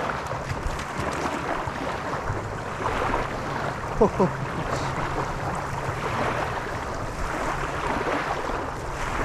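Wind buffeting the microphone over lapping lake water, a steady rushing noise with low rumble. A brief falling pitched sound cuts through about four seconds in.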